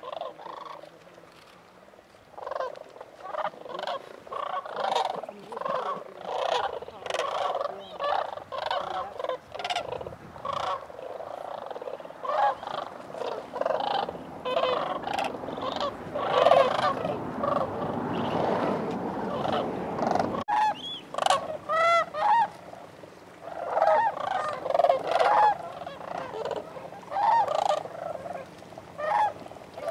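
A flock of sandhill cranes calling, many overlapping calls, picking up about two seconds in and continuing thickly.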